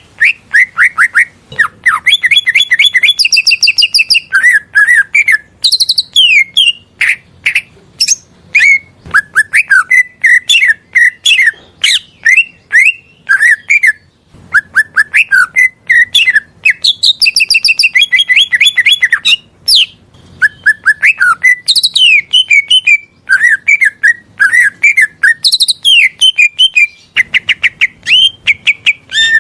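Green leafbird (cucak ijo) singing a continuous, varied song of rapid chirps, trills and clear whistled notes, with only a brief pause about halfway through. The same phrases recur, as in a bird-training recording.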